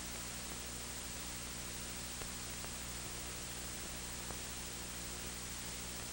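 Steady hiss from the recording's noise floor with a low electrical mains hum under it, and a few faint clicks.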